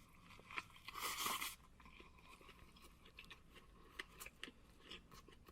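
Close-miked mukbang eating sounds: a big, noisy bite about a second in, followed by scattered small crunches and wet clicks of chewing.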